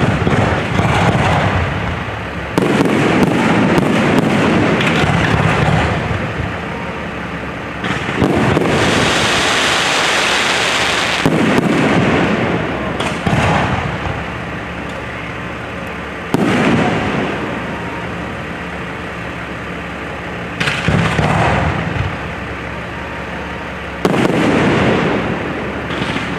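Fireworks display: aerial shells bursting with loud booms every few seconds, each followed by a long rumbling echo. A stretch of denser, higher crackle comes about nine seconds in.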